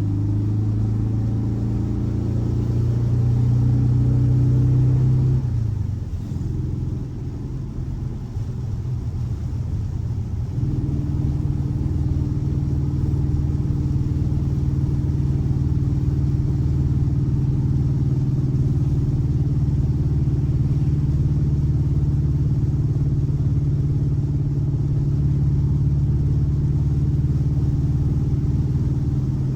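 Air-cooled 1584 cc flat-four boxer engine running. It is held at raised revs that creep up slightly, then drops back to a lower speed about five to six seconds in. Near ten seconds it picks up again to a steady higher speed that is held.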